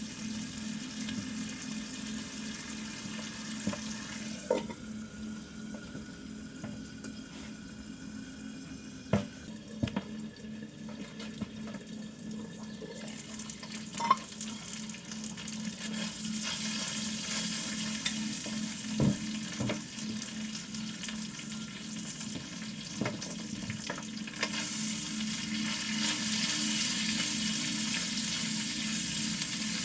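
Food sizzling in a hot pan, with a few sharp knocks of a utensil against it. The sizzle fades for several seconds early on, then grows louder again from about halfway.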